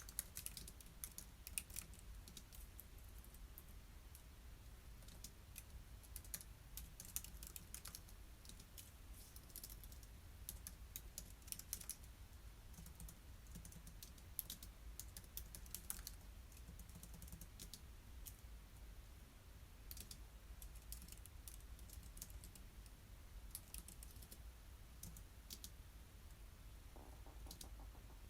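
Typing on a computer keyboard: soft key clicks in irregular bursts with brief pauses, over a faint low hum.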